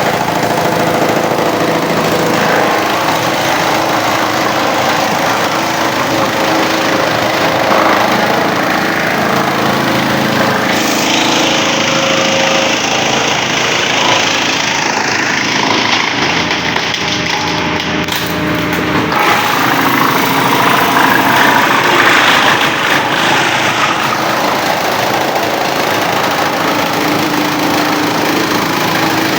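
Engine-driven wood chipper running steadily. Partway through, the sound turns harsher for two stretches of several seconds each.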